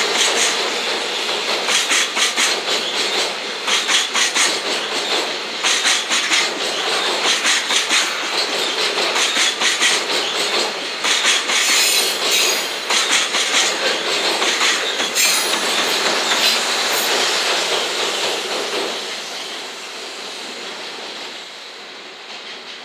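Freight train of steel-rail-loaded Chiki flat wagons rolling past close by, its wheels clattering over the rail joints in irregular clicks. The sound fades as the train draws away, from about 18 seconds in.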